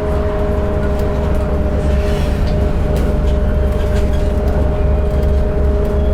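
Volvo B8RLE city bus under way at a steady speed: low engine and road rumble with a steady two-note whine over it and light rattles.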